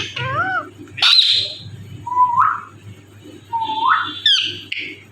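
Indian ringneck parrot calling: a run of about five short squawks and whistled notes, two of them rising in pitch, with a harsh squawk about a second in.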